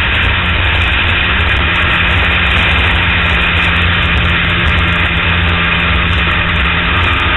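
CB490 motorcycle engine running at a steady cruise, holding an even pitch, under a constant rush of wind and road noise.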